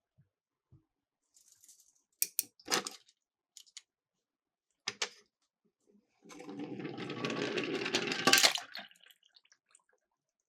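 Small toy cars clicking and knocking against a plastic slope: a few sharp clicks about two and five seconds in, then a rattling run of nearly three seconds, loudest near its end.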